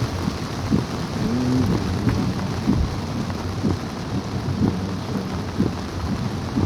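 Heavy downpour: steady rain hissing, with irregular low thuds of big drops striking a nearby surface.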